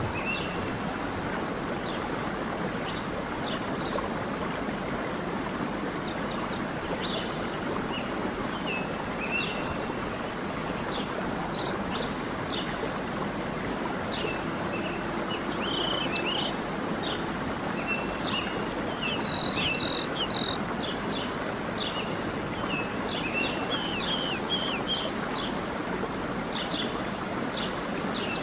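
A stream running steadily, with small birds chirping over it throughout and two higher trilled calls about three and ten seconds in.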